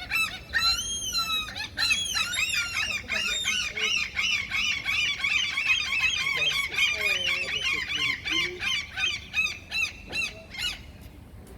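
A gull giving its long call: a drawn-out opening call, then a rapid run of short yelping notes, about four to five a second, which stops about a second before the end.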